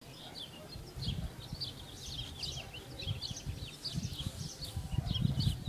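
Small birds chirping in many quick, high, repeated calls that run on throughout. Irregular low thumps and rumble sit underneath.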